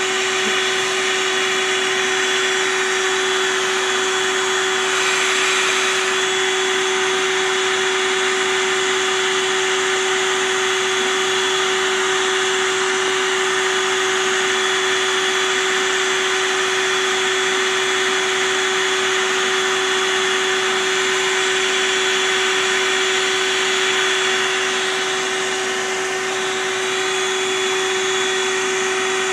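A vacuum motor running steadily, a constant whine-like hum over rushing air, easing off slightly for a moment near the end.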